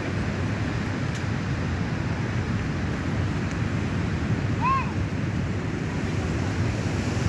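Rough sea after rain: waves breaking in a steady rushing roar, with wind buffeting the microphone. A single short chirp rises and falls about two-thirds of the way through.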